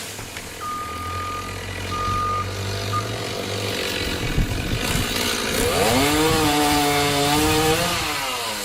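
Chainsaw revving up, held at speed for a couple of seconds, then easing back down near the end. Before it come three high electronic beeps, two longer and one short.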